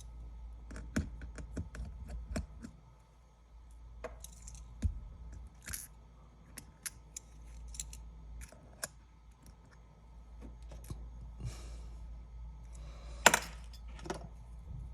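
Scattered small clicks, taps and short scrapes of repair tools and parts being handled while working on an opened iPad, with a louder scrape and click near the end.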